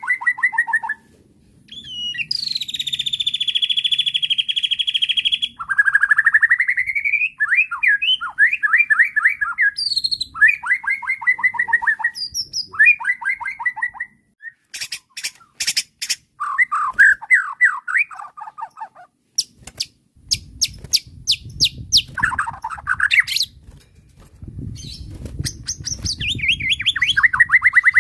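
White-rumped shama (murai batu) singing a varied song of rapid trills, rising whistles and a long buzzy note, broken by sharp clicking notes.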